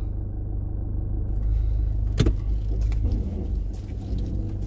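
Car engine running steadily, heard from inside the cabin as a low hum, with a single sharp click about two seconds in.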